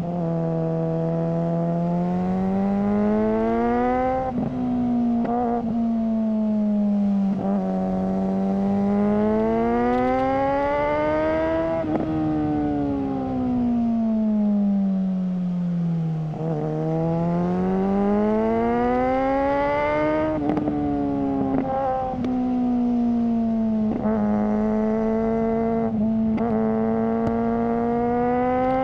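Suzuki GSR600 inline-four motorcycle engine through a GPR Ghost aftermarket exhaust, under way. The revs climb and ease off several times in long smooth swells, with short sharp breaks in the note between them.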